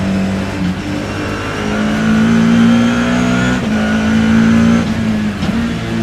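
BMW E30 M3 racing car's four-cylinder engine heard onboard, accelerating hard with its pitch climbing, then a quick upshift a little past halfway and a second climb before it eases off near the end.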